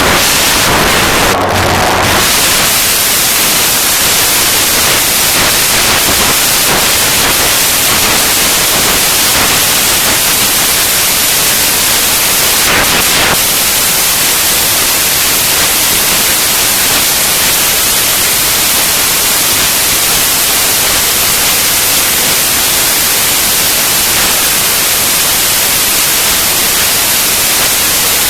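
Loud, steady hiss of static-like white noise with no pitch or rhythm, carrying on without a break.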